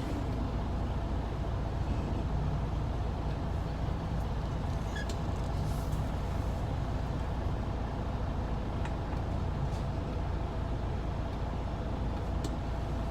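Semi truck's diesel engine running steadily at low revs, heard from inside the cab as the truck is reversed slowly, with a few faint ticks.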